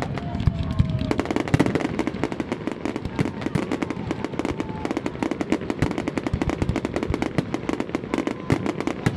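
Fireworks display: a dense, rapid crackle of many small bursts, many per second, with heavier bangs among them.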